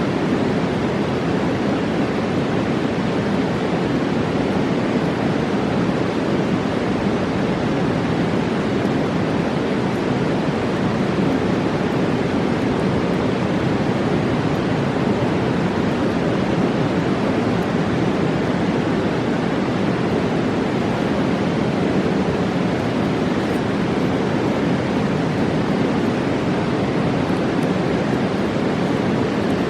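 Fast mountain river rushing, a loud, even roar of water that holds steady throughout.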